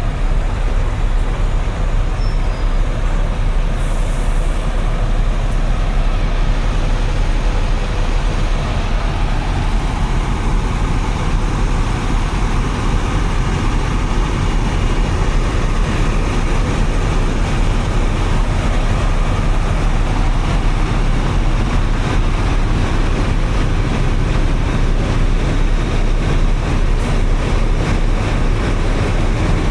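Steady road traffic noise from vehicles on a wet street, with a heavy low rumble and an even hiss.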